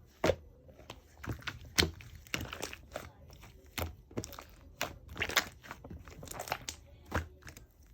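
Yellow slime being kneaded and pressed by hand, giving irregular sharp clicks, pops and short crackles as trapped air bursts.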